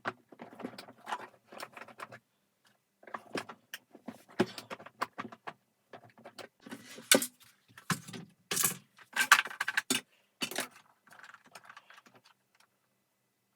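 Vacuum cleaner parts being handled during disassembly: irregular clicks, knocks and small rattles. The loudest knocks come in the middle, and the sounds trail off near the end.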